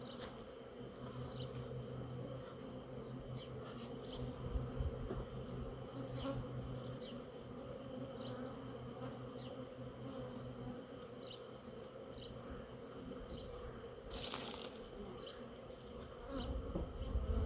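Swarm of honeybees buzzing around an opened hive, a steady low hum whose deepest tone drops away about eleven seconds in. Scattered light clicks of hive boxes and frames being handled, and a brief hiss about fourteen seconds in.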